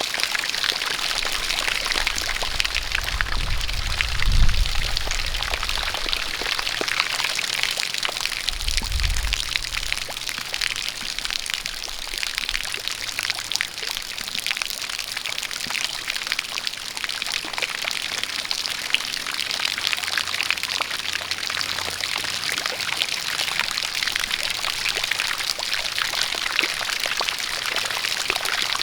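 Steady rain falling, with a stream of water pouring: a dense, even hiss of drops and splashing. A short low rumble comes about four seconds in and again around nine seconds.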